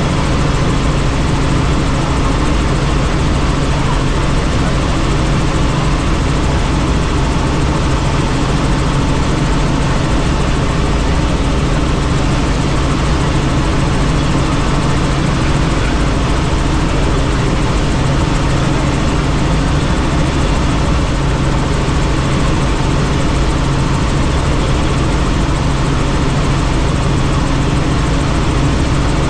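Helicopter in steady flight heard on board: a constant loud drone of engine and rotor noise that does not change.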